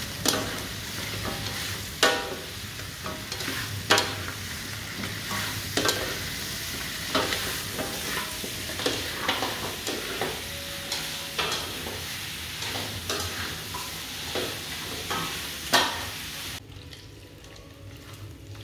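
Chicken pieces sizzling in a wok of butter sauce as they are stir-fried, with the utensils knocking and scraping against the pan every second or two. The sizzling drops away shortly before the end.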